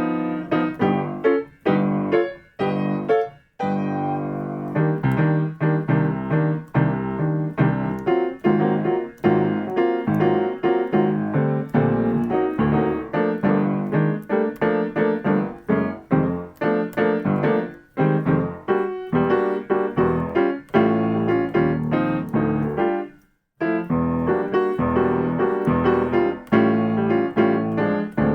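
Piano playing jazz comping patterns: short chords struck in a choppy, syncopated rhythm, with a brief pause a few seconds before the end.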